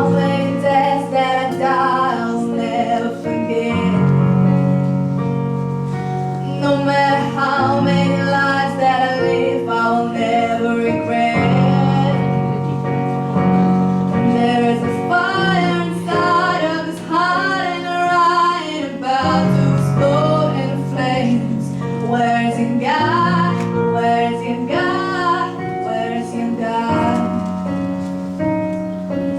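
Female vocalist singing a slow song, accompanied by piano and two violins, with held low chords changing every few seconds under the melody.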